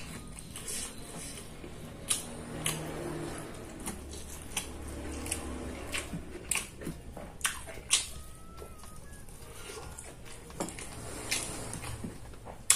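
A person chewing and eating chicken, with irregular wet clicks and smacks of the mouth.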